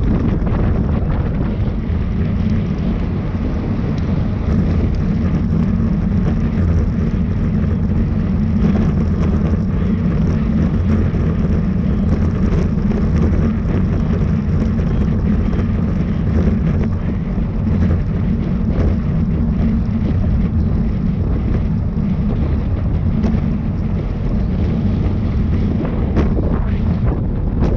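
Loud, steady wind rumble on the microphone, with most of its weight low down.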